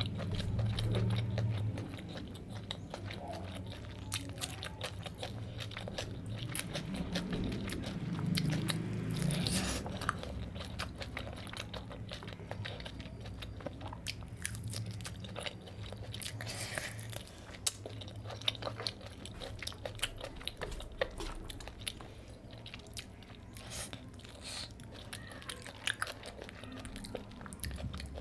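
Close-miked eating: a man chewing mouthfuls of rice, curry and fish eaten by hand, with many small mouth clicks throughout.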